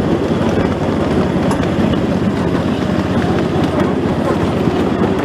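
Train running steadily on the rails, a loud, even rumble heard from aboard.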